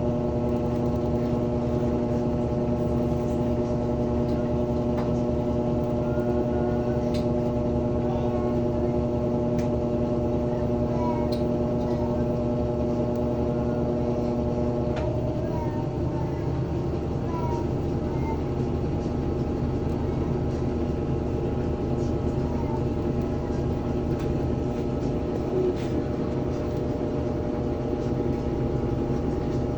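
Mabe 6 kg Aqua Saver Green top-load washing machine in its spin cycle, its motor humming steadily with no knocking: the drum spins normally after the transmission repair. The hum changes about halfway through as the strongest low tone drops out.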